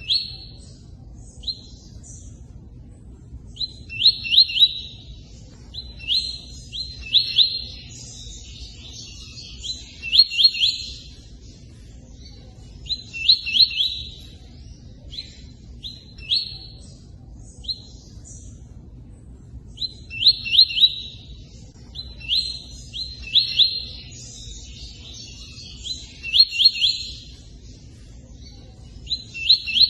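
A songbird singing the 'tui-tui' song in short phrases of clipped whistled notes, each ending in a quick run of rising notes, repeated every two to three seconds with short pauses between them. Running water hisses steadily underneath.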